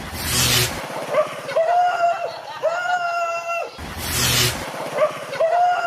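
A dog whimpering in a series of drawn-out, high, level-pitched cries, about half a second each. Two loud, harsh noisy bursts come at the start and about four seconds in.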